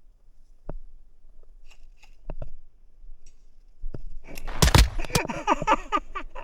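A few scattered sharp clicks, then a loud knock about four and a half seconds in, followed by a short burst of a person's voice.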